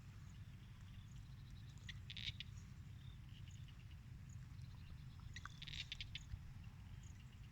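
Buffalo feeding: faint crunching and rustling of fodder in short crackly clusters, about two seconds in and again around six seconds, over a low steady rumble.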